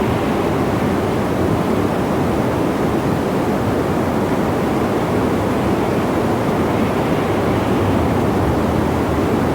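Steady wind noise: an even, low rush with no gusts or lulls.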